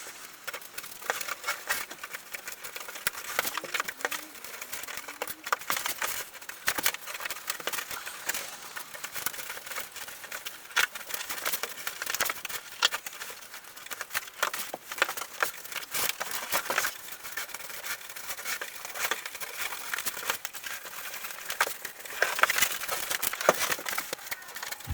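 Headliner fabric being handled and pressed down onto the glued headliner board: an irregular run of crinkling and crackling with many small clicks.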